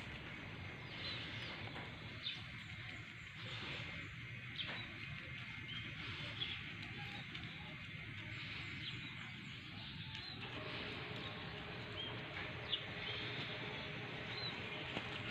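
Outdoor background with scattered short bird chirps over a steady low rumble.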